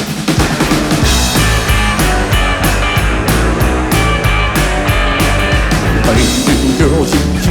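Rock and roll band striking up the instrumental intro of a song live, starting all at once at full volume, with a steady drum beat and bass line under electric guitar.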